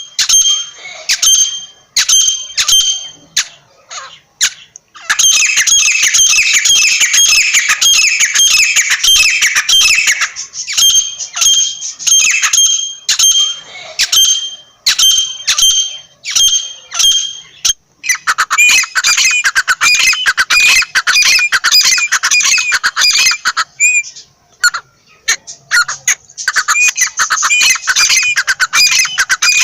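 Teetar (francolin, the South Asian partridge) calling over and over with loud, high-pitched repeated calls. They come spaced apart at first, then in dense rapid runs, with a brief lull before the last run.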